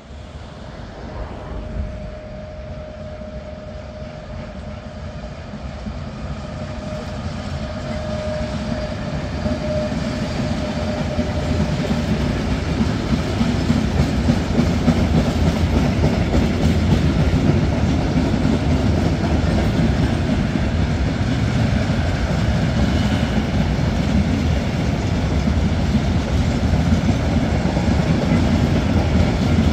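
Freight train of tank wagons hauled by a class 186 electric locomotive rolling past, wheels running on the rails. It builds for about fifteen seconds as the train comes alongside, then holds. A steady whine sounds through the first ten seconds or so.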